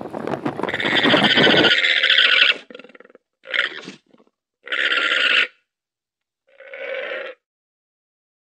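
Llama calls: one long harsh call lasting about two and a half seconds, then three short calls spaced about a second apart.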